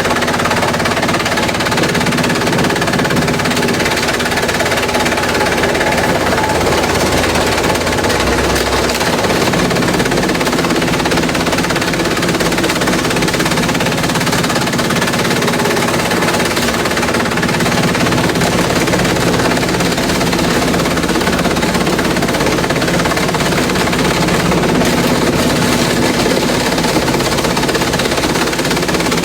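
Industrial bamboo shredder running loud and steady, its motor humming under a dense, rapid crackling as bamboo is broken up.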